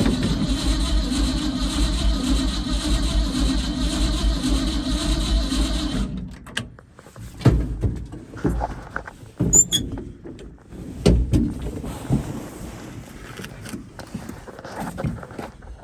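Ford F100's starter motor cranking the engine with a steady pulsing churn, without it firing, then cutting off abruptly about six seconds in; a few scattered knocks and clicks follow. The cranking shows the starter and its solenoid working on a weak battery.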